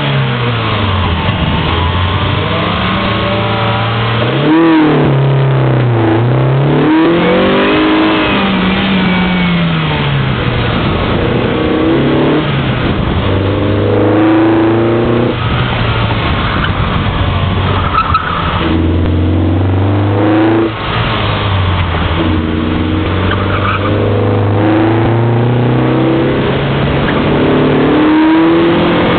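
A 1992 Mazda Miata's 1.6-litre four-cylinder engine, fitted with a cold air intake, revving hard through an autocross course. Its pitch climbs and drops again and again as the driver accelerates, lifts and shifts.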